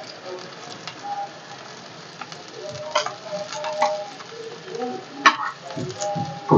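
Rava-coated potato slices sizzling as they shallow-fry in a little oil in a flat pan, while a metal spatula turns them over. A few sharp clicks of the spatula against the pan come through the steady sizzle, the sharpest one about five seconds in.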